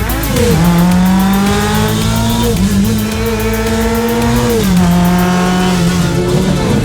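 Lancia 037 Rally's supercharged four-cylinder engine pulling hard on track, its pitch climbing slowly with a brief dip about two and a half seconds in, then falling back just before five seconds.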